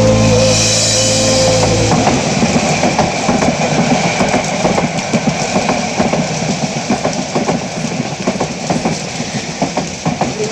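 Train running along the track, its wheels clattering over the rails with a continuous rumble. A steady held tone sounds for the first two seconds and cuts off suddenly.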